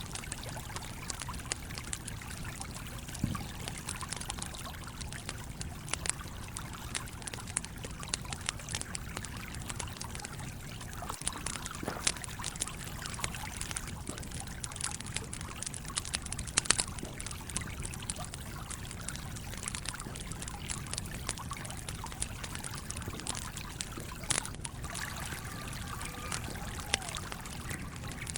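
Campfire crackling, with scattered sharp pops, over the steady flow and trickle of a stream.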